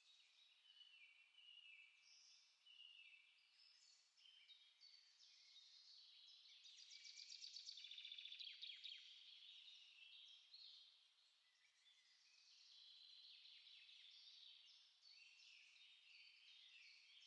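Small songbirds chirping and singing over one another in a continuous chorus of short high phrases, with a fast, louder trill about seven seconds in.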